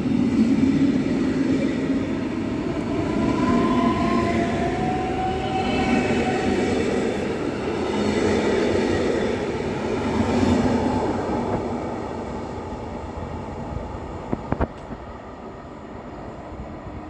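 SNCB intercity passenger coaches pulling along the platform, a rising whine as the train gathers speed and wheels rumbling past in repeated swells. The noise fades away over the last few seconds, with a few sharp clicks near the end.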